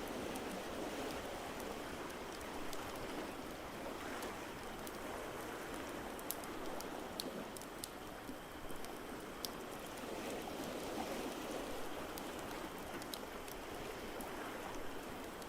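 Steady wash of ocean waves, swelling slowly at times, with scattered sharp crackles of a wood fire.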